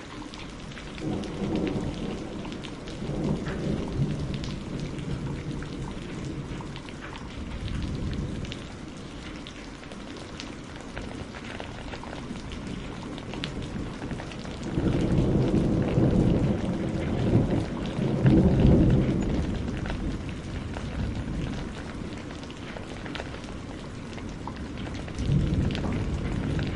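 Steady rain with several rolls of thunder, the longest and loudest rumbling about fifteen to twenty seconds in, over scattered sharp ticks.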